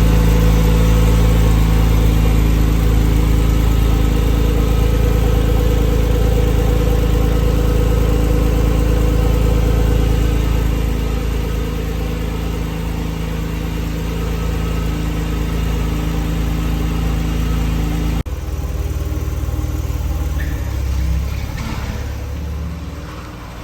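A 2006 Porsche 997 Carrera S's 3.8-litre flat-six idling steadily after a cold start, its fast idle easing off slightly partway through. About eighteen seconds in the sound changes abruptly to a quieter, rougher running that fades out near the end.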